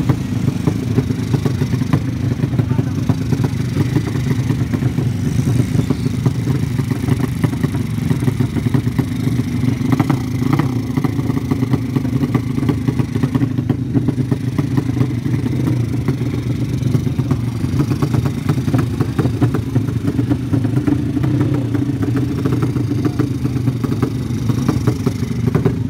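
Motorcycle engines running steadily, with no clear rev-up or pass-by.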